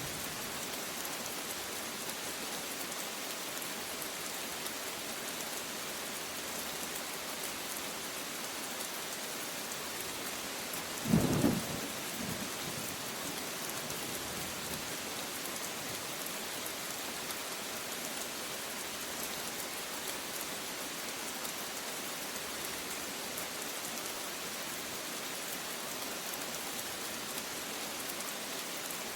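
Steady rain falling, with one short, loud clap of thunder about eleven seconds in and a weaker rumble right after it.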